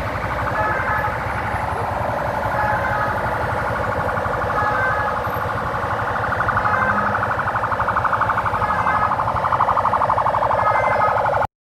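A huge flock of birds calling all at once, a loud, dense mass of overlapping chirps that cuts off abruptly near the end.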